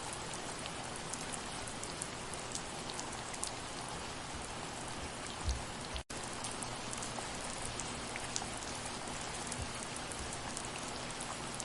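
Steady soft rain: an even hiss with scattered ticks of single drops. About halfway through there is a low thud, and then the sound cuts out for a split second before carrying on.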